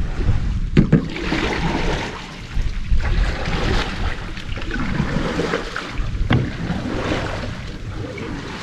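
Kayak paddle strokes splashing in the water every second or two, with wind rumbling on the microphone. Two sharp knocks, about a second in and near six seconds in.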